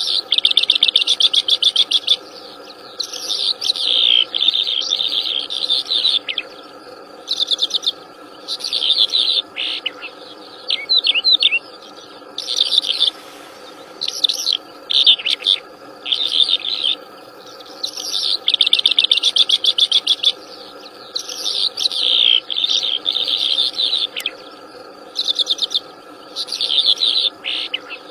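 Wild songbird singing lively, high chirping phrases of a second or two again and again with short pauses between them, over a steady background drone.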